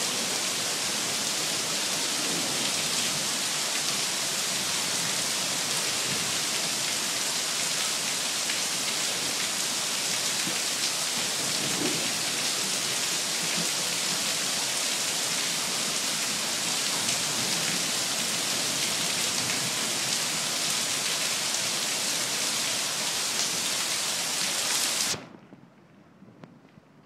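Heavy rain pouring down in a steady, dense hiss during a thunderstorm. It cuts off abruptly near the end, leaving things much quieter.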